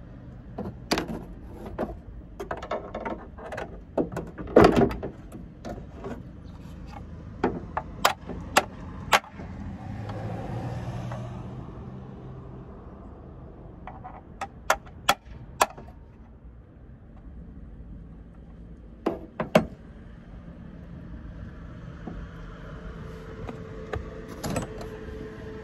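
Scattered sharp clicks and knocks of hands and tools working on a car's tail light assembly, coming in a few short clusters. A low rumble swells and fades about ten seconds in.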